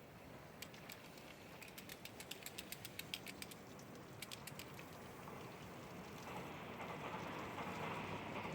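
Car wash water spray pattering on a car, with a run of rapid, even ticks through the first half and a hiss of spray that swells and grows louder over the last couple of seconds.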